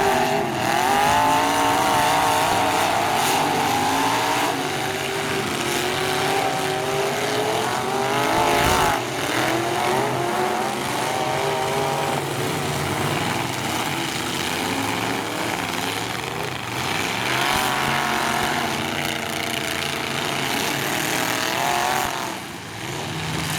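Several demolition derby truck engines revving hard, rising and falling in pitch as the trucks accelerate and back off, with a thud about nine seconds in.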